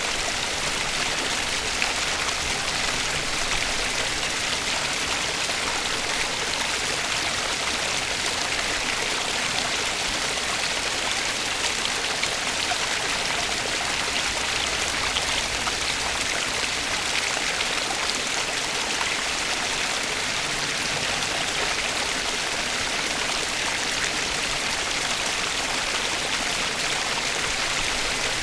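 Flowing stream water, a steady even rush with fine splashing and no change in level.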